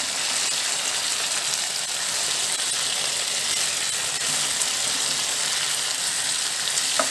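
Cubed potatoes shallow-frying in a few spoonfuls of oil in a non-stick pan, a steady sizzle with fine crackling.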